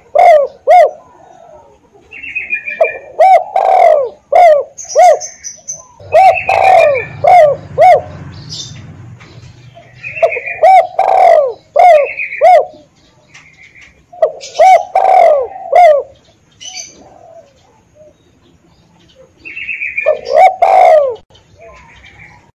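Spotted dove cooing: repeated phrases of several short, falling coos, a new phrase every few seconds with brief pauses between.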